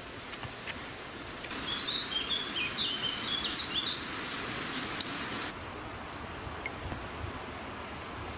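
A songbird singing a quick run of short, high chirping notes for about four seconds, over a steady hiss.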